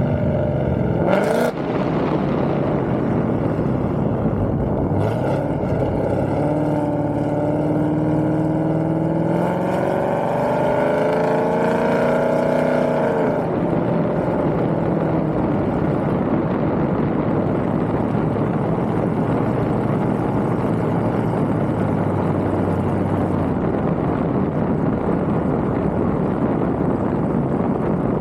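Drag-racing street car's engine at full throttle, its pitch climbing in several rising sweeps and then dropping away about 13 seconds in, followed by steady engine and wind noise.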